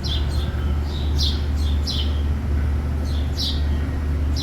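A small bird chirping repeatedly in short, quick, falling chirps, in little groups, over a steady low hum of building ventilation.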